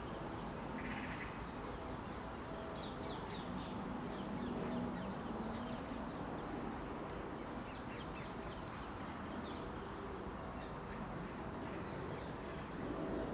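Outdoor ambience of steady background noise with faint, scattered bird calls, including a few low, duck-like calls about four to five seconds in.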